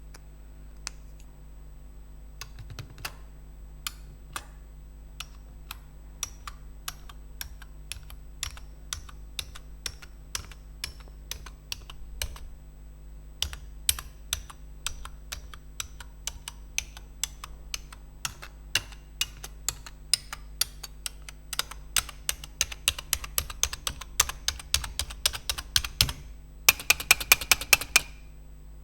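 Computer keyboard keys being pressed one by one, slow and sparse at first and growing quicker, then a fast flurry of louder key clicks near the end that stops suddenly.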